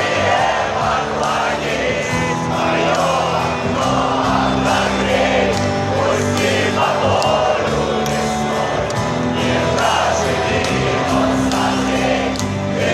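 Rock band playing live in a large arena with steady held bass notes, while many crowd voices sing and cheer along.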